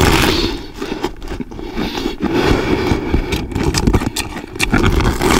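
Close-up crunching and chewing of a raw napa cabbage leaf, with crisp bites and wet chewing in quick succession.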